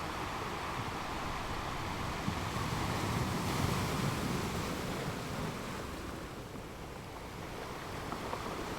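Sea waves washing in, a continuous rushing surge that builds to a peak about three to four seconds in and then draws back.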